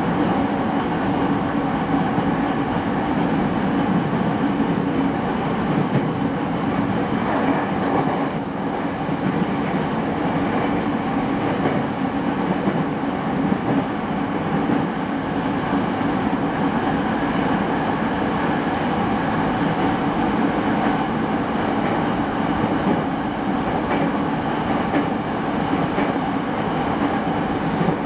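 Running noise inside a motor car of a refurbished JR East E217 series electric multiple unit: wheels on rail and traction equipment, running steadily with a few faint steady tones in the noise.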